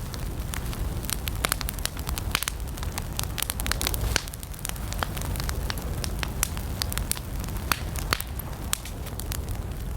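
Wood campfire burning: a steady low rumble of flames with frequent sharp, irregular crackles and pops from the burning wood.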